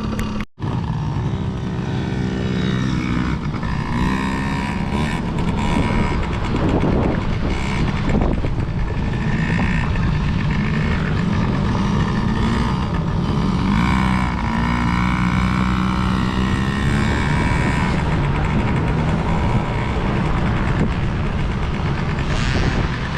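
Youth dirt bike engines running and revving, their pitch rising and falling as the bikes ride the track, with a brief break in the sound about half a second in.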